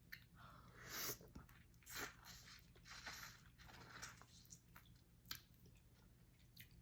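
A person chewing and biting into a sauce-soaked shrimp: a string of soft crunching mouth sounds, about one a second, the loudest about one and two seconds in.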